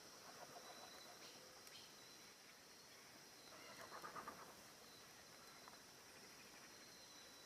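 Faint nature ambience: a steady high insect drone with a few faint bird calls, the loudest a short run of rapid calls about four seconds in.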